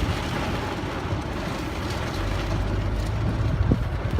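Heavy rain and road noise inside a moving car, with a steady low rumble that grows heavier about halfway through.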